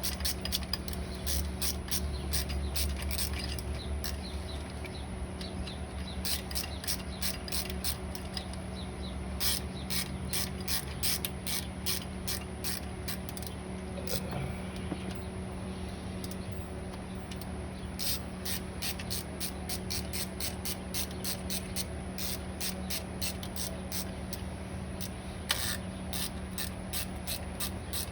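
Ratchet and 1/2-inch socket clicking in quick runs with short pauses, running down the 5/16 bolts that hold an alternator bracket to the water pump.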